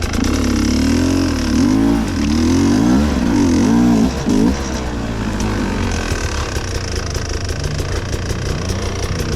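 Enduro motorcycle engine revved up and down repeatedly for the first four or five seconds, then running at lower, steadier revs with a few short rises near the end.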